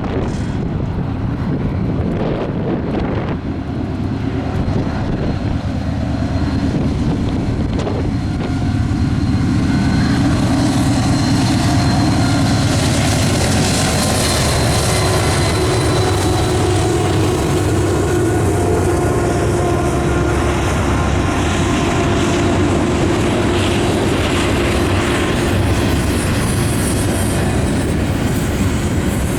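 Norfolk Southern freight train rolling past: a steady, loud rumble of wheels on rail and the train's running noise, swelling a little about a third of the way in, with faint steady whining tones above it.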